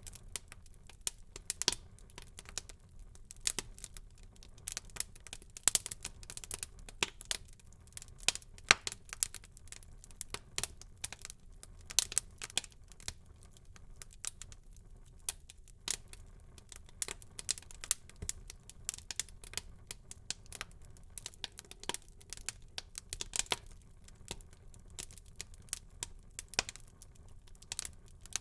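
Wood fire burning in a fireplace, crackling and popping in quick, irregular snaps over a low steady hiss.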